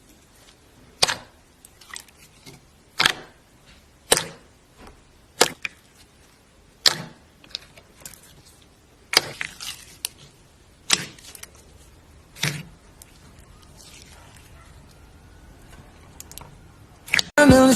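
A series of sharp, crisp snaps or taps, one roughly every one to two seconds, with fainter ticks in between. Music comes in at the very end.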